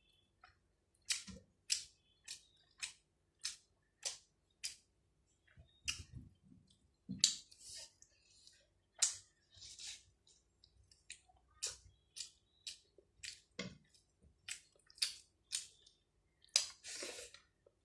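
A person eating rice and chicken: chewing, with wet mouth clicks and smacks about twice a second and a few longer, noisier chews.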